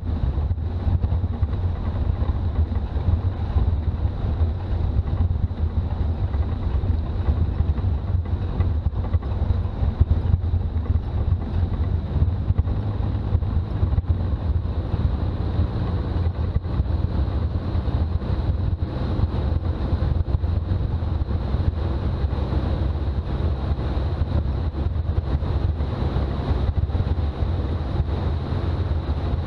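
Toyota BJ40's diesel engine and road noise while driving: a steady low rumble that holds even throughout.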